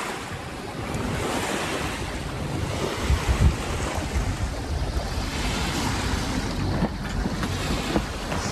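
Wind buffeting the microphone over the rush of water along a sailboat's hull while under sail, rising and falling in gusts.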